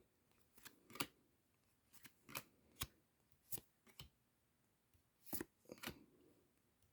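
Trading cards being flipped through by hand: about ten faint, short clicks of card against card, spaced irregularly, in near silence.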